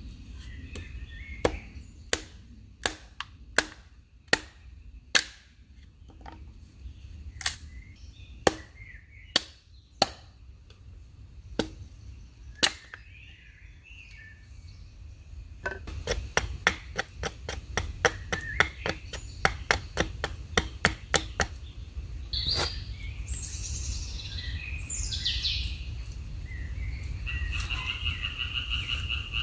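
Chopping: a series of sharp knocks a little under a second apart for the first dozen seconds, then a quicker run of lighter knocks for about five seconds. Birds chirp throughout, with a few sweeping calls and a short buzzy trill near the end.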